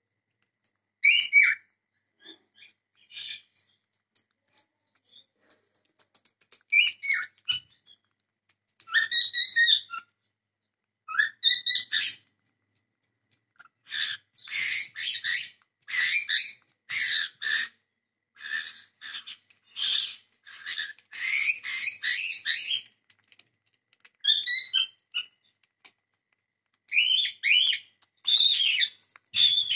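Cockatiels chirping and whistling: a few scattered calls at first, then a near-continuous run of chirps from about halfway, a short pause, and more chirps near the end.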